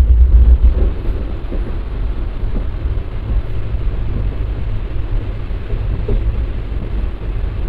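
Diesel-hauled passenger train running, heard from a window seat in a coach: a steady rumble and rush, a little louder in the first second.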